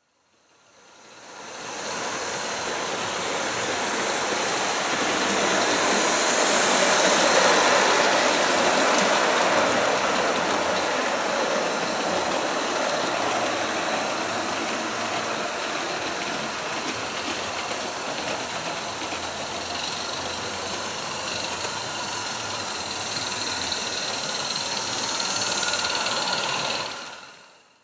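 A 16 mm scale live-steam garden locomotive running, its sound fading in at the start and out near the end.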